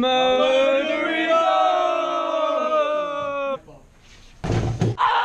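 A group of young voices holding one long, drawn-out shout together for about three and a half seconds, then a short break and a brief noisy burst near the end.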